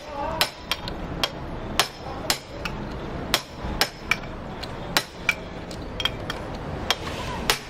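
Irregular series of sharp metallic hammer blows, roughly two a second, some with a short ring: a hammer striking a hand impact driver on a motorcycle's clutch.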